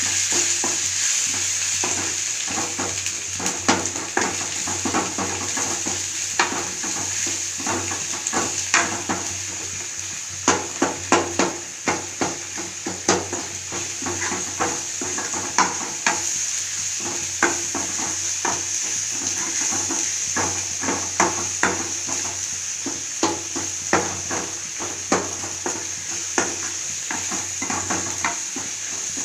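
Food sizzling in hot oil in a pan with a steady hiss, while a spoon stirs it, scraping and clicking against the pan many times at an uneven pace.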